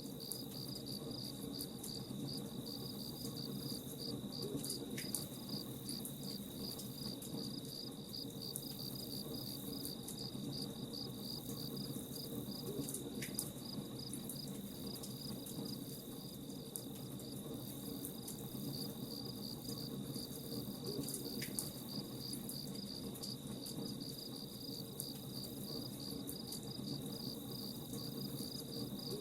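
Crickets chirping in a continuous, evenly pulsed high trill over a steady low rumble, with faint scattered crackles from a campfire.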